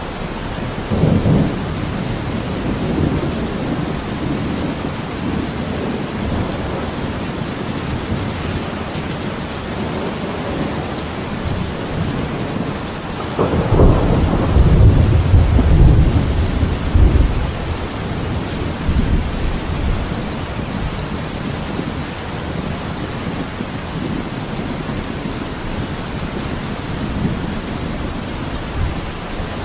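Thunderstorm: steady heavy rain with rolling thunder. A short rumble comes about a second in, and a long, loud rumble of thunder rolls through about halfway, followed by fainter rumbles.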